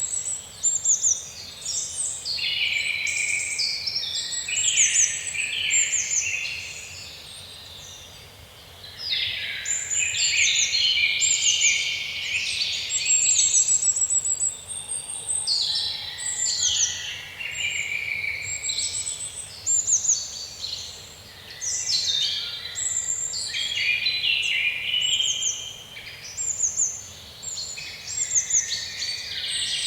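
Several songbirds singing at once in woodland, with overlapping rapid chirps and trills and brief lulls. A faint hiss of background noise lies underneath.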